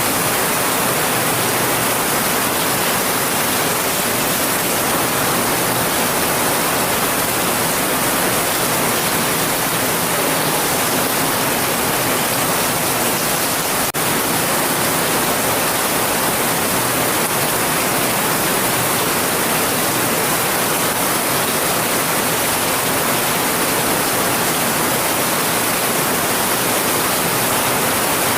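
Heavy rain falling steadily: a dense, even hiss with no thunder, broken only by one faint click about halfway through.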